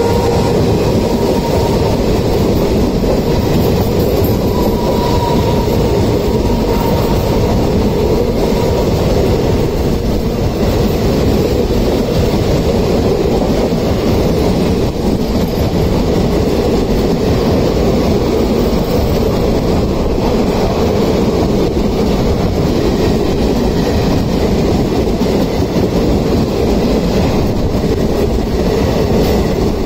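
Indian Railways express coaches running past each other on adjacent tracks: a loud, steady rumble and clatter of steel wheels on rail, heard from an open coach doorway.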